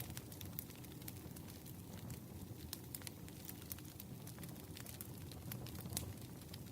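Wood campfire burning, a steady low flutter of flames with irregular crackles and a few sharper pops from the burning logs.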